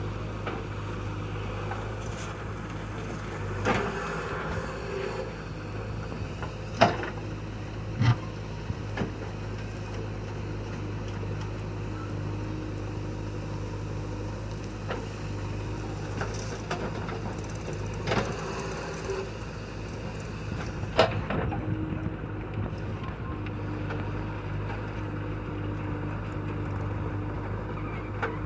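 JCB 3DX backhoe loader's diesel engine running steadily while it loads soil into a tractor trolley. A handful of sharp clanks break in, the loudest about seven seconds in and again near twenty-one seconds.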